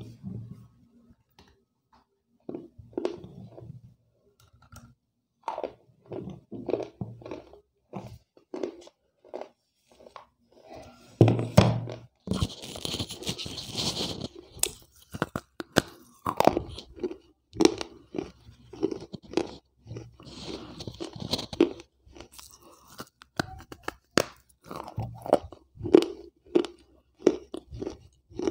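Wet slate pencils being bitten and chewed right at a lavalier microphone: a string of irregular, sharp crunches and gritty chewing.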